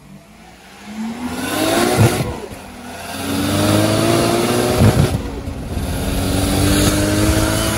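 A car's engine revving hard under full acceleration down a drag strip, its pitch climbing and then dropping at two upshifts, about two and five seconds in, each marked by a short sharp crack.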